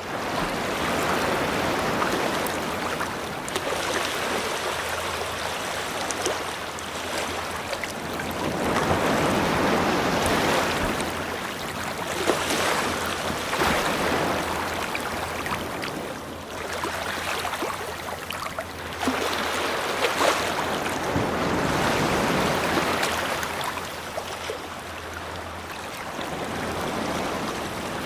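Ocean waves washing onto a beach, rising and falling as each wave breaks and draws back every few seconds, with fizzing, crackling foam at the peaks.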